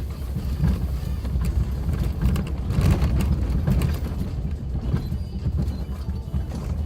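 Suzuki Jimny driving over a rough unpaved forest road: a low, uneven engine and road rumble with irregular knocks and rattles as the vehicle goes over the bumps.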